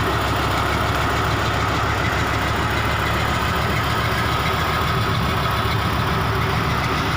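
Logging truck's diesel engine running steadily at low revs, with an even rumble that does not rise or fall.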